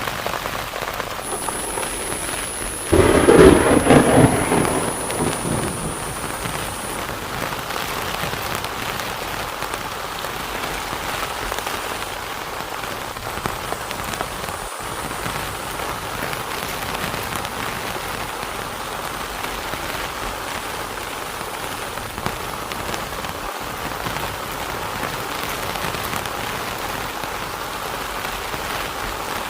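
Heavy rain falling steadily. A loud clap of thunder about three seconds in rumbles away over the next few seconds.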